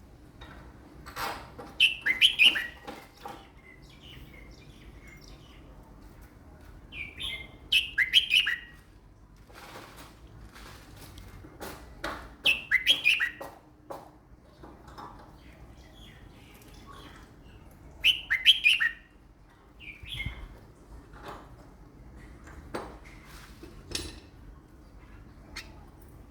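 Caged red-whiskered bulbul singing short, loud whistled phrases about every five seconds, with softer calls and light clicks in between.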